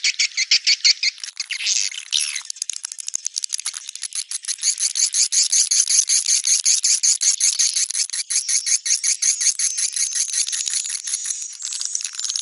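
Swiftlet calls from a 'netral' swiftlet lure sound: a fast, continuous high-pitched chirping twitter at about ten chirps a second, which shifts pattern about two seconds in and again near the end.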